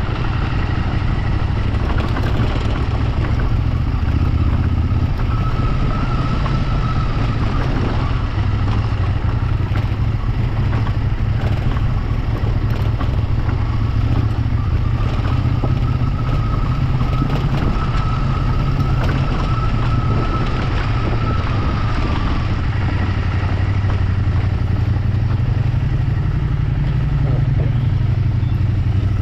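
Motorcycle engine running steadily while riding, a continuous low drone with little change in pitch.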